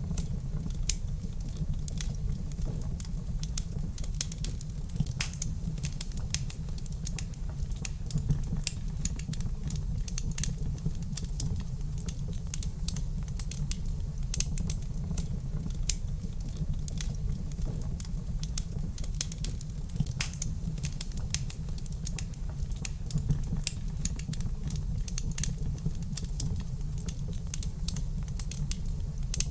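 Wood fire crackling in a fireplace: a dense run of small irregular pops and snaps over a steady low rumble of the flames.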